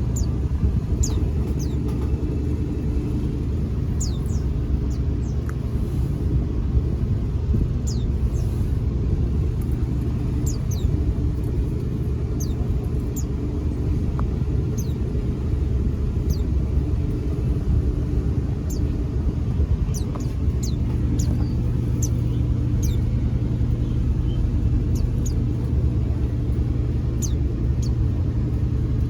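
Steady low mechanical hum and rumble, with thin high chirps from white-eyes (pleci): short notes that slide downward, scattered every second or two.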